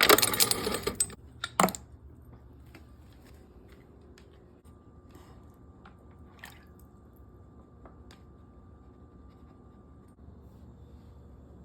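A puppy splashing and lapping at the water in her bowl while going after a floating ice cube, loud for about the first second. Then comes a sharp knock, and after that it is mostly quiet with scattered small clicks.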